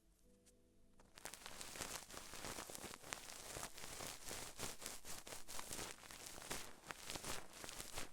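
Close-up crackling and rustling made of many small clicks, starting about a second in and going on densely, like an ASMR trigger object being handled near the microphone.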